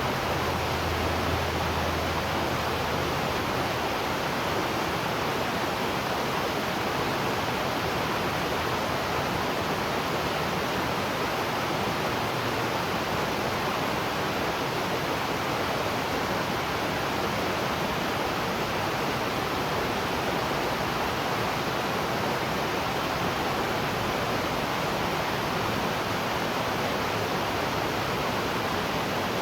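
Waterfall: a steady, even rush of falling water. A faint low hum sits under it for the first couple of seconds.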